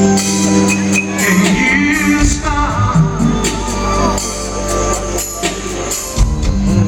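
Live band playing a slow R&B ballad, with steady bass, drums and tambourine, and a voice singing a wavering wordless run about a second in.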